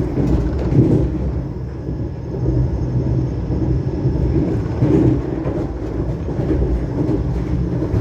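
Train running on the track: a steady low rumble.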